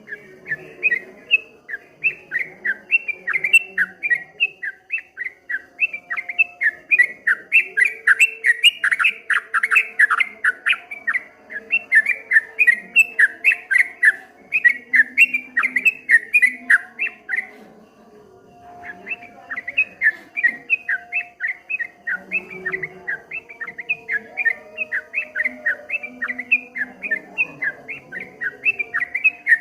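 Yellow-vented bulbul (trucuk) singing a rapid 'ropel' song, a fast unbroken run of short chirping notes that stops for about a second near two-thirds of the way through, then starts again.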